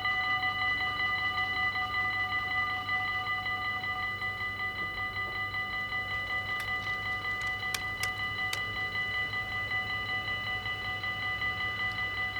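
Dutch railroad crossing warning bell ringing steadily with a rapid, even pulse. A few sharp clicks come about halfway through.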